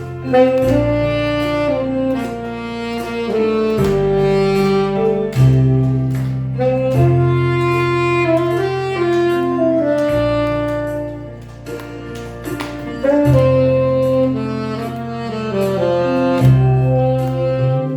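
Saxophone playing a slow, lyrical melody over an accompaniment of long, sustained bass notes and chords.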